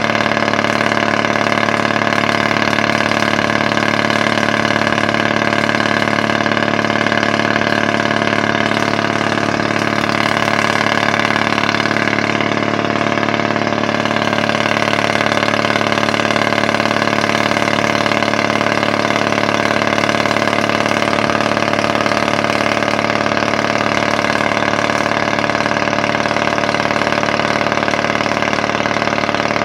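Engine of a 1957 Caterpillar D8 crawler tractor running steadily at an even idle, with no change in speed.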